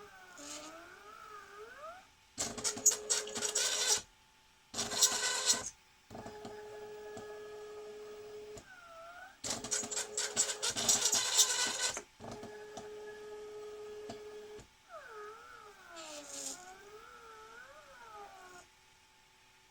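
Stepper motors of a 3D-printed SCARA chess robot arm whining as the arm moves, the pitch gliding up and down as the motors speed up and slow down, with stretches of steady whine. Three louder, noisy mechanical bursts break in, the longest about two and a half seconds.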